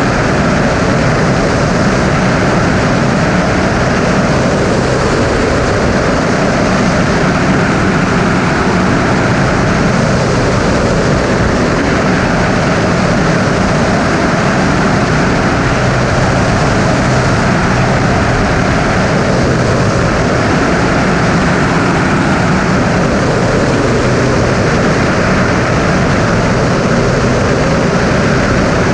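Single-engine Cessna's piston engine and propeller running steadily, a loud, even drone with a low hum that doesn't change.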